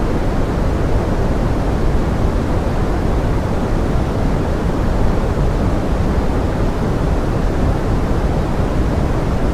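Steady pink noise given as forest rain: an even, deep hiss, heaviest in the low end, with no separate drops or changes.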